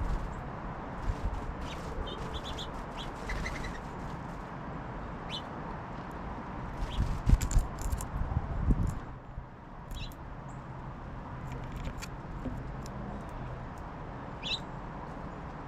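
Small songbirds at a backyard feeder giving short, scattered high chirps and call notes, with clicks and a few low thumps in between over a steady outdoor hiss.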